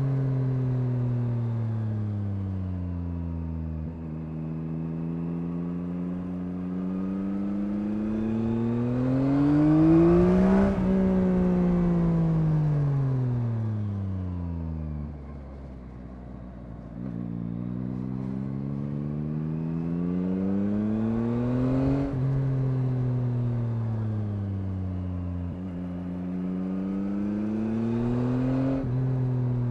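Yamaha MT-09's 890 cc CP3 inline three-cylinder engine recorded from the bike on the move. The revs climb steadily under throttle, then fall away as the throttle closes, over and over. The highest and loudest peak comes about ten seconds in, and the revs drop low in the middle.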